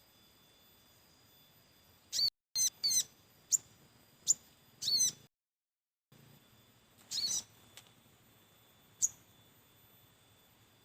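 Sogok ontong (spiderhunter) calling: a string of short, sharp, high chirps, several close together in the first half and a few more spaced out later. The sound drops out completely twice, briefly.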